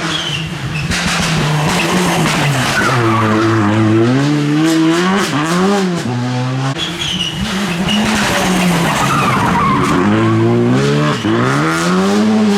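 Rally car engine revving hard, its pitch falling and climbing again several times as it brakes and accelerates through corners and gear changes, over skidding tyre noise.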